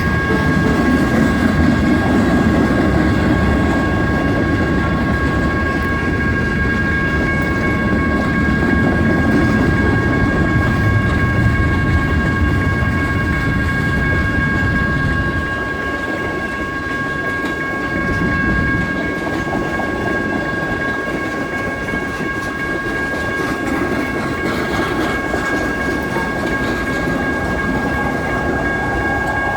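Freight train cars rolling past a grade crossing: a heavy rumble and wheel clatter. The crossing's electronic warning bells ring steadily over it. The rumble eases about halfway through.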